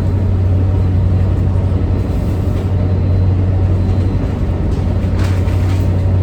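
Steady, loud low drone of a towboat's diesel engines running, with a faint knock about five seconds in.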